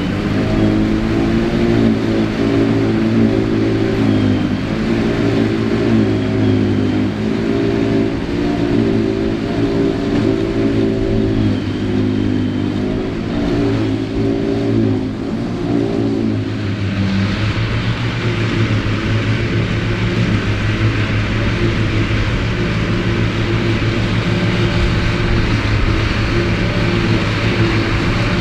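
Ford 8630 tractor's diesel engine working under load, driving a Mengele SH40N forage harvester cutting silage. The engine note wavers up and down for about the first two thirds, then changes to a steadier, lower note with more hiss mixed in.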